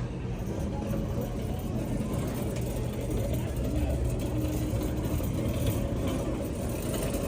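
A motor vehicle engine running steadily with a low rumble, with people's voices in the background.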